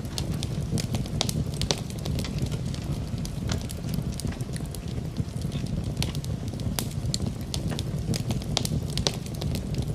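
Wood fire in a fireplace crackling, with frequent sharp, irregular pops over a steady low rumble, mixed with a steady hiss of rain.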